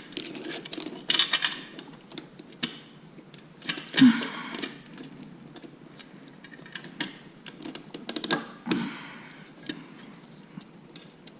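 Irregular metallic clicks, clinks and knocks of hand tools and exhaust hardware being handled, with short runs of quick ticking and a louder knock about four seconds in.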